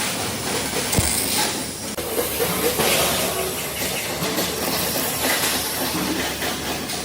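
Steady, loud hissing workshop machinery noise, with a sharp knock about a second in.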